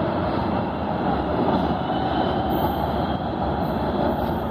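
Metro train running through the station: a loud, steady rumble with no clear clatter or squeal standing out.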